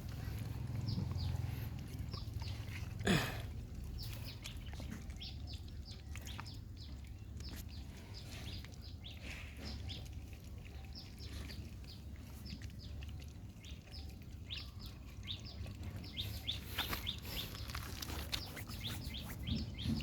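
Birds chirping: many short, high chirps scattered throughout, over a steady low rumble of outdoor background noise. A single brief, louder sound stands out about three seconds in.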